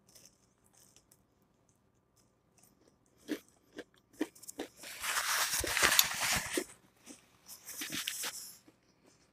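Crunchy chewing of a mouthful of crispy air-fried breaded chicken strip and lettuce salad. Scattered single crunches come first, then a dense crunch of about two seconds starting about five seconds in, with more crunching near the end.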